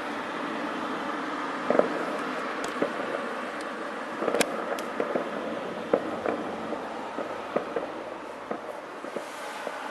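Fireworks going off: a steady crackle with scattered sharp pops, the loudest about two seconds and four and a half seconds in.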